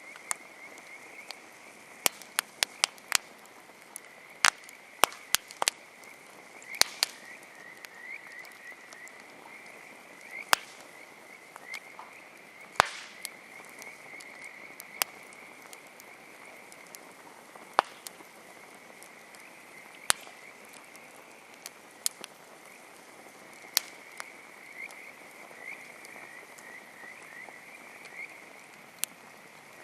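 Wood campfire crackling, with irregular sharp pops, several of them loud. Behind it runs a steady, high-pitched animal chorus of quick trills.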